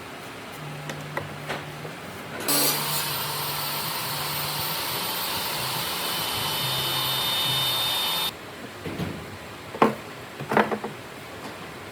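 An electric power tool switches on abruptly, runs steadily with a high whine for about six seconds, then cuts off. A few sharp knocks of wood follow near the end.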